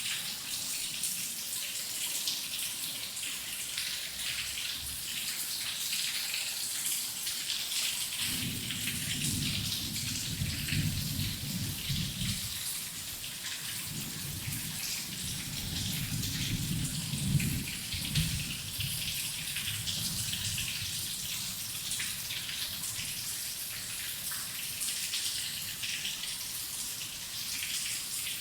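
Heavy rain falling steadily, a dense patter of drops. A low rumble of thunder comes in about eight seconds in and rolls on for about ten seconds before dying away.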